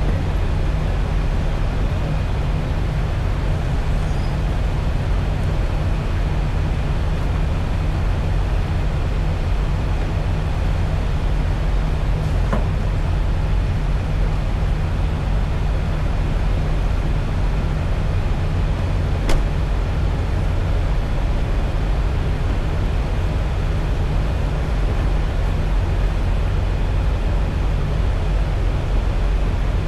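Steady low engine drone and road noise of a semi truck heard inside the cab while driving, with a couple of faint clicks.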